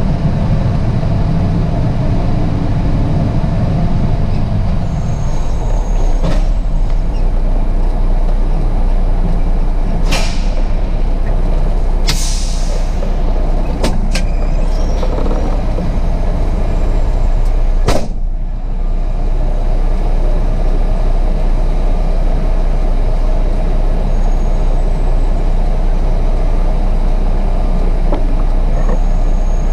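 Diesel truck engine running steadily, with a few sharp clicks and a brief hiss of air a little before halfway through.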